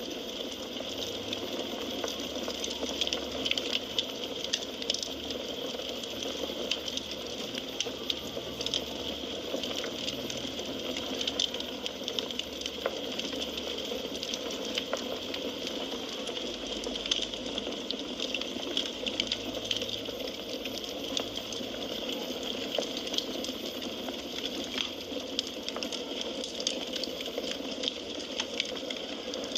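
Firewood burning in a fireplace, crackling steadily with many small, irregular pops over a soft hiss.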